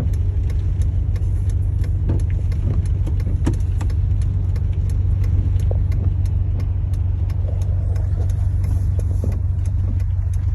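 Steady low rumble of a car driving, with a faint run of light ticks about three times a second.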